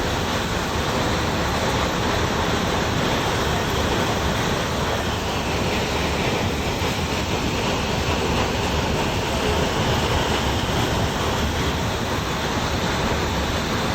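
Hailstorm: hailstones and rain pelting down heavily in a dense, steady rush of noise.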